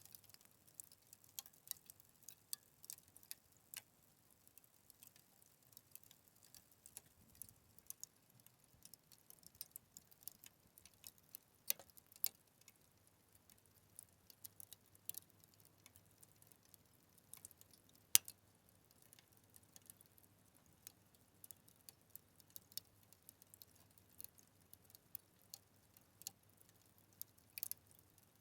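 Fire crackling: a quiet, irregular run of small pops and snaps, with one sharp, much louder pop about two-thirds of the way through.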